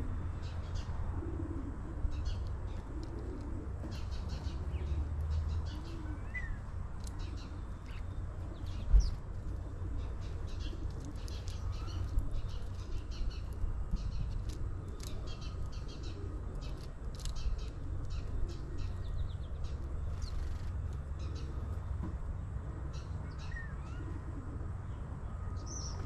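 Birdsong: many short, quick chirps from small birds throughout, over a steady low rumble, with a single sharp thump about nine seconds in.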